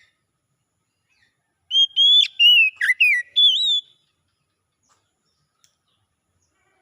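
Oriental magpie-robin (kacer) singing one short phrase of clear, gliding whistled notes lasting about two seconds, starting near the two-second mark.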